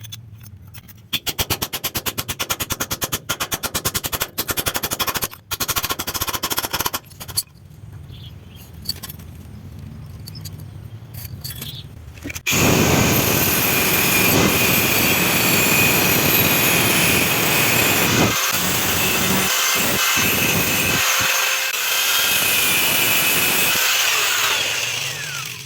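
Power tools working a steel tablespoon into a drill bit. First comes a run of rapid rattling strokes that stops about seven seconds in. After a quieter spell, a power tool runs steadily with a high whine from about halfway until just before the end.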